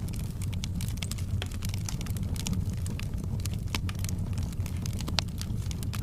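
Wood fire burning in a fireplace: irregular sharp crackles and pops over a steady low rumble of the flames, with one louder pop about five seconds in.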